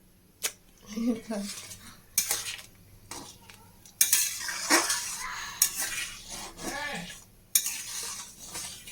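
A metal spoon stirring and scraping in a cooking pan of chili chicken sauce: several separate clinks against the pan, then about three and a half seconds of steady scraping from about four seconds in, ending in another clink.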